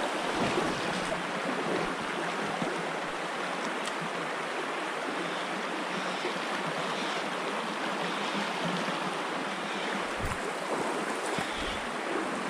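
River water running in a steady rush, with a few faint low bumps near the end.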